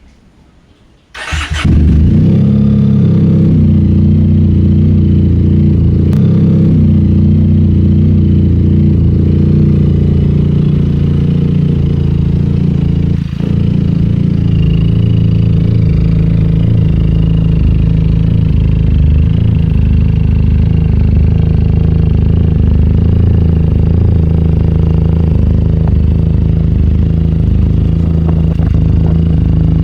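QJ Motor SRK 400 parallel-twin motorcycle engine with an aftermarket Akrapovic exhaust started about a second in, then idling steadily, with a brief dip about halfway.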